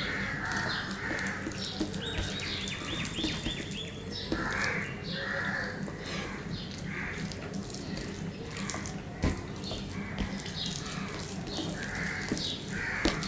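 Wet open-mouth chewing and lip-smacking of soft khichuri eaten by hand, with small clicks of fingers working the rice on a steel plate; the smacks come irregularly, about one a second.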